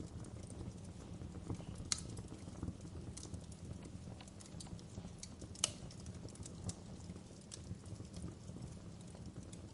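Wood fire crackling, with irregular sharp pops and snaps over a steady low rumble of burning. The two loudest pops come about two seconds in and just before six seconds.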